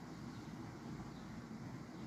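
Steady low outdoor background noise with no distinct sounds standing out.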